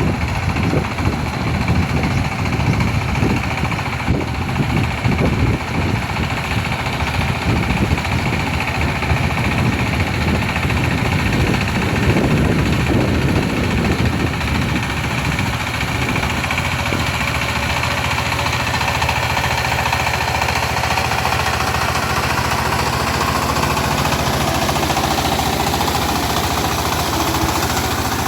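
Power tiller engine running while ploughing, a rapid regular beat that is heavier in the first half and steadier after.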